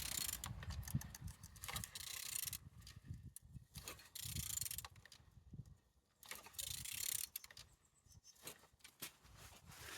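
Engine being turned over by hand in repeated strokes, with mechanical clicking and rasping about every two seconds, four times over. It turns freely, a sign the engine is not seized.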